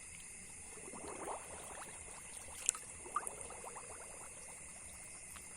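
Water sloshing and gurgling in short spells, about a second in and again about three seconds in, with a sharp click between them, over a steady high-pitched background drone.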